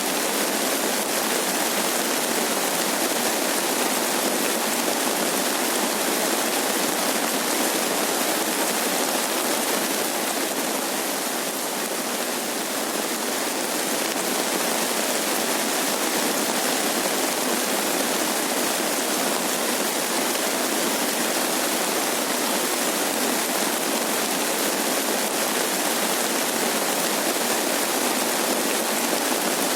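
Steady rain falling, a dense, even hiss with no pauses.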